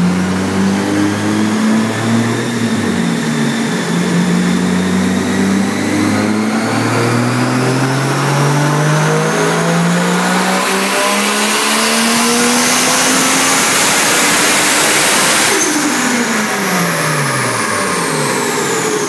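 Turbocharged 2JZ-GE straight-six of a 1994 Toyota Supra NA-T running on a dyno: revs climb in stages with a high whine rising alongside them, building to a loud full-throttle stretch. About fifteen seconds in the throttle closes abruptly and the revs fall away.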